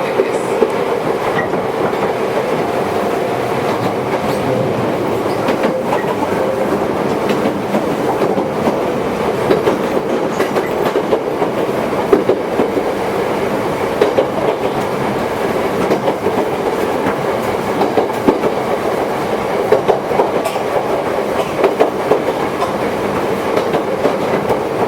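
Ex-Tokyu Toyohashi Railway 1800 series electric train running at speed, heard from inside the car: a steady rumble with wheels clicking over rail joints. A steady whine in the first few seconds fades away.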